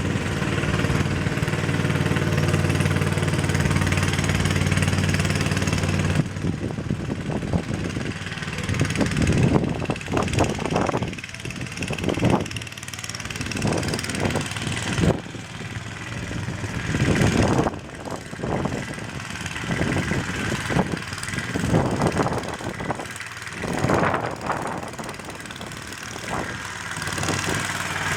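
8-horsepower Briggs & Stratton single-cylinder engine of a Mayrath mini tractor running. It is steady for about six seconds, then goes uneven with repeated surges and dips.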